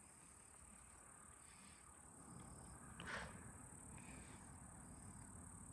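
Near silence: faint outdoor ambience with a steady high hiss, a few faint short chirps, and one brief faint sound about three seconds in.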